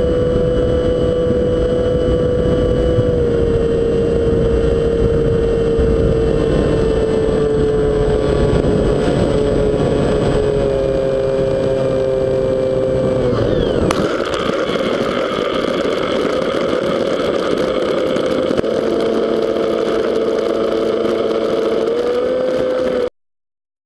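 Model plane's motor running with a steady whine that slowly sags in pitch, under a heavy rumble of strong wind. About two-thirds of the way through, the pitch glides down and the wind rumble eases, then the whine carries on until the sound cuts off abruptly.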